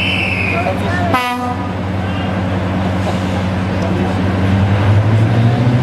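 Diesel locomotive engine running with a steady low drone, with a short horn toot about a second in. Near the end the engine note rises and grows louder as it opens up.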